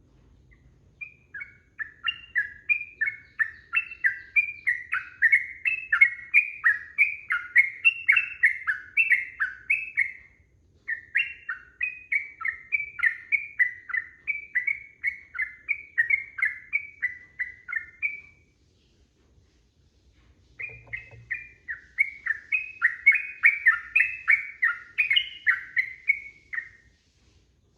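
Yellow-vented bulbul (trucukan) singing long, fast runs of bubbling notes, about four a second, in three long bouts with two short breaks.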